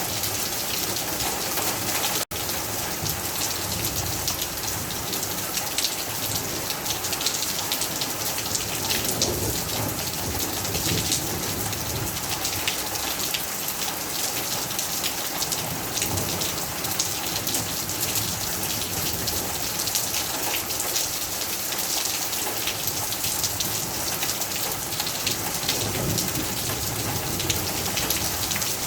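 Heavy rain falling steadily, a dense patter of drops hitting surfaces. The sound cuts out for an instant about two seconds in.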